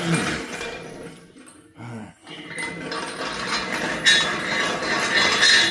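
Metal parts and hand tools clinking and clanking as a C-clamp is worked on engine hardware, with two sharp metal clanks near the end.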